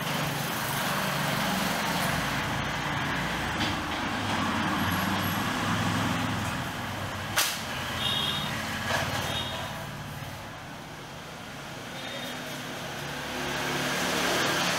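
Steady low rumble of a running motor vehicle nearby. About seven seconds in, one sharp snap as the leaf-spring steel Mongolian bow is shot.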